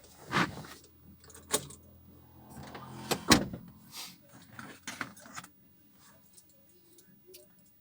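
Hand tools being handled, with a handful of short, sharp clicks and clinks in the first five seconds, the loudest a little over three seconds in.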